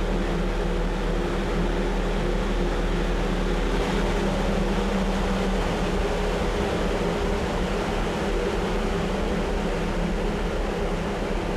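A wind machine running steadily: a continuous roar with a low, even hum underneath.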